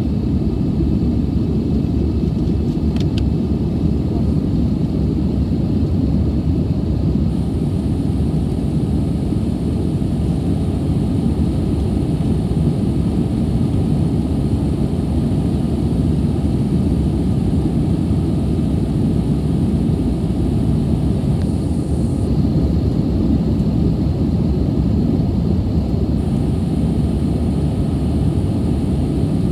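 Steady low roar of an Airbus A320's engines and airflow heard from inside the passenger cabin, with a faint high-pitched tone over it for much of the time.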